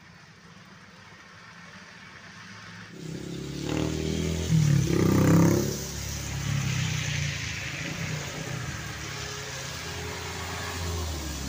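A truck's engine approaching and passing over a rough road, fainter at first, then loud from about three seconds in and loudest around five seconds in before settling to a steady run. A hiss of tyres on the wet road runs under it.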